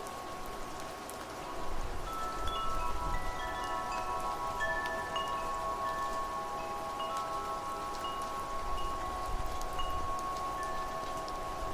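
Wind chimes ringing, several metal tones struck at random and ringing on, growing busier about two seconds in, over a steady hiss of rain and wind.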